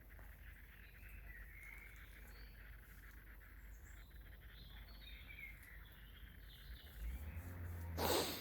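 Faint birdsong: scattered short chirps from small birds over a low background. Near the end a low rumble comes in, followed by a brief burst of noise.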